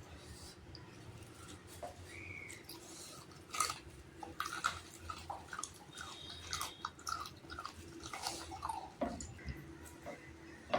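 A person chewing and eating chicken and rice, with irregular short wet mouth smacks and clicks, thicker from about three and a half seconds in.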